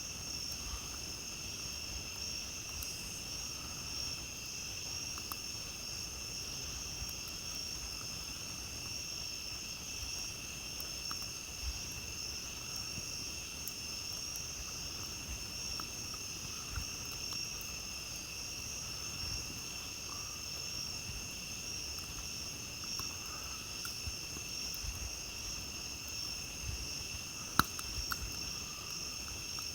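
Steady chorus of night insects chirring at a high, even pitch, with a few faint crackles and pops from a campfire and one sharper pop near the end.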